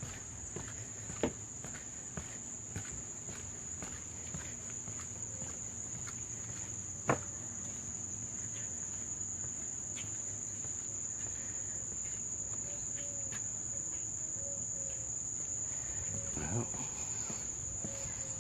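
Insects giving a steady, high-pitched chorus. A few faint knocks are scattered through it, with two sharper ones about a second in and about seven seconds in.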